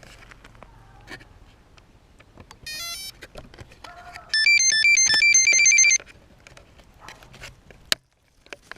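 Electronic beep tones from a 3DR Iris+ quadcopter's flight-controller buzzer: a quick rising run of beeps, then about a second and a half of a loud beeping tune that jumps back and forth between pitches.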